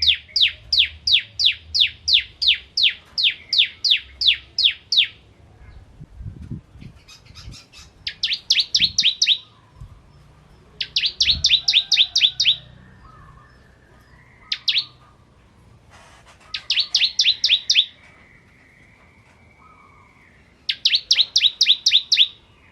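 Bar-winged prinia (ciblek kristal) singing: a long run of sharp, high, downward-sweeping notes at about four a second for the first five seconds. After that it gives short, quicker bursts of about six to ten notes every few seconds.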